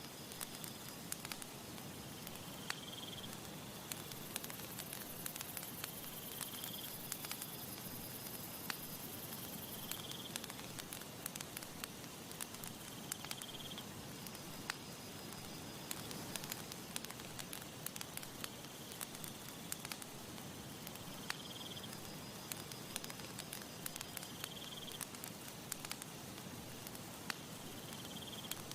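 Campfire crackling, with many sharp pops over a steady hiss. A short high chirp repeats about every three and a half seconds, and a thin, very high buzz runs from about four to ten seconds in.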